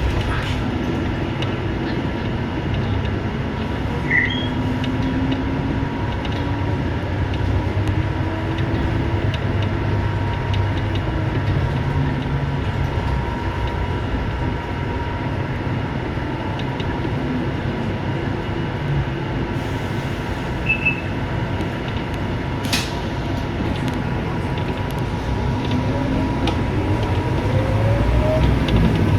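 Scania K230UB single-deck bus heard from inside the cabin while driving: a steady engine and road rumble, with the engine pitch climbing near the end as the bus speeds up. A single sharp click about two-thirds of the way through.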